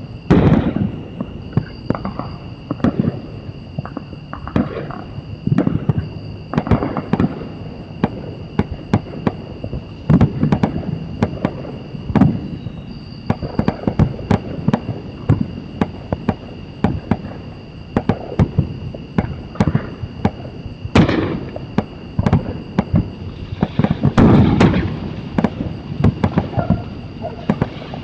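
Fireworks going off in a dense run of overlapping bangs and crackles, several a second, with louder clusters about a second in, around the middle and near the end. A steady high-pitched tone sounds underneath throughout.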